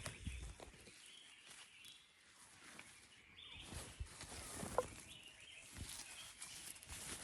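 Faint forest ambience with scattered soft knocks and rustles, like footsteps on the forest floor. A brief, sharper sound comes about five seconds in.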